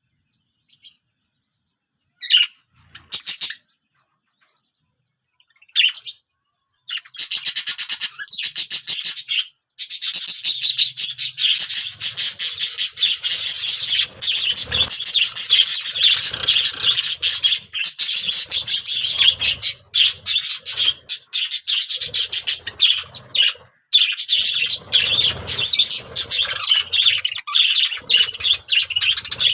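Birds chirping and squawking: a few short separate calls at first, then from about seven seconds on a loud, almost continuous rapid chatter of high calls with brief pauses.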